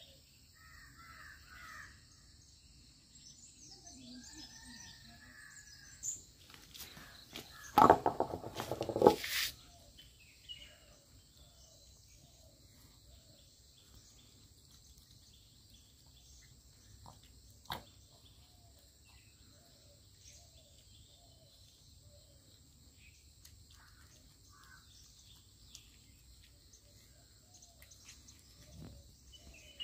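A bird caws several times in a loud, harsh cluster about eight seconds in; fainter short bird calls then repeat at a steady pace, over a steady high insect drone.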